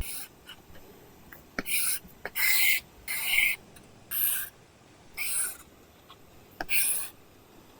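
Apple Pencil (2nd generation) drawing on an iPad fitted with a paper-like screen film: about seven short scratchy strokes, each under half a second, with light taps of the pen tip between them.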